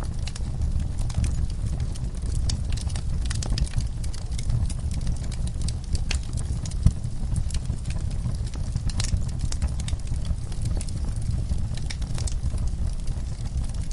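Fireplace crackling, with scattered sharp pops over a steady low rumble, mixed with the sounds of horses shifting in a stall.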